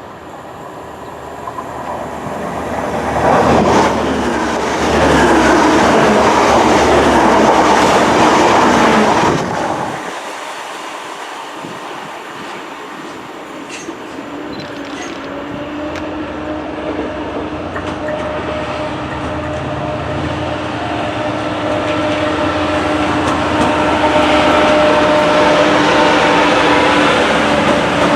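Trains on the line. One passes close with loud wheel-on-rail noise for about six seconds, then cuts off suddenly. After that a train approaches with a steady hum that grows gradually louder.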